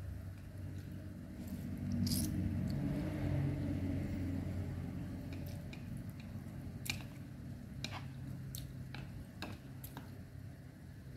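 A person eating rice vermicelli noodles close to the microphone: wet chewing and mouth noises, loudest a couple of seconds in, then a few sharp smacking clicks in the second half.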